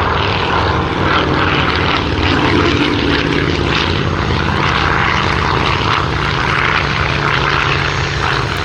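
Avro Anson Mk I's twin Armstrong Siddeley Cheetah radial engines drone steadily as the aircraft flies its display, the engine note shifting slightly in pitch a couple of seconds in.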